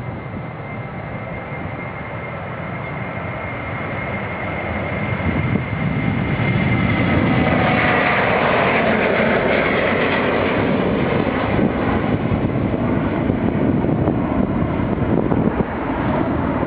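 Boeing 737-800's CFM56 turbofan engines at takeoff power passing by: a high whine falls in pitch about seven seconds in as the sound swells, then a loud steady jet roar.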